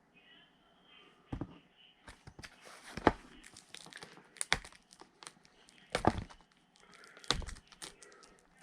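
Packaging being handled by hand: a run of irregular knocks and taps with crinkling in between.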